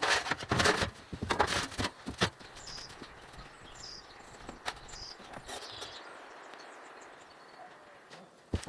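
Several rough scraping or knocking strokes in the first two seconds, then a quieter stretch where a few short bird chirps sound over faint outdoor background noise.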